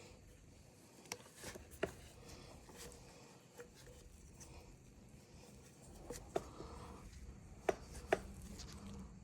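Light clicks and taps of hand tools and small parts being handled during a chainsaw repair, with a few sharper knocks about two seconds in and twice near the end.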